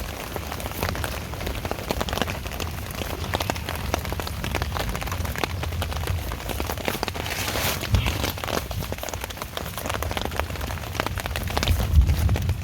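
Steady rain falling, with many separate drops striking close by. There is a low thump near the end.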